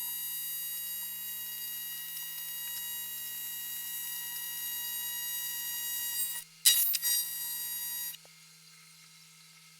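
AC TIG welding arc on aluminium buzzing steadily. It breaks off about six seconds in, flares briefly twice, then stops a little after eight seconds.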